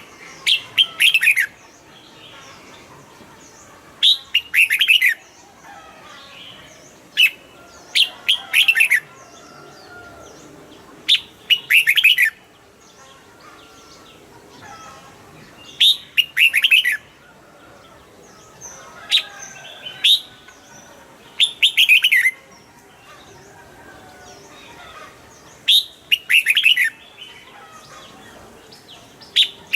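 Red-whiskered bulbul singing: a short, bright phrase of quick downward-sweeping notes, repeated about every three to four seconds, with fainter chirps in between.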